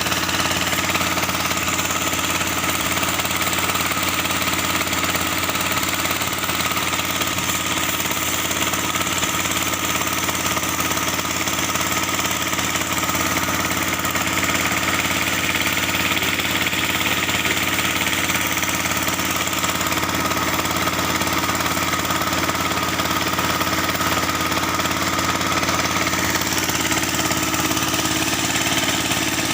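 Kubota L3608 tractor's diesel engine running steadily at an even speed.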